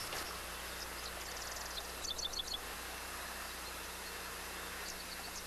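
Faint outdoor marsh ambience: high bird chirps over a steady hiss and a low hum. A quick run of about six chirps comes about two seconds in, with a short buzzy trill just before it and a few single chirps scattered around.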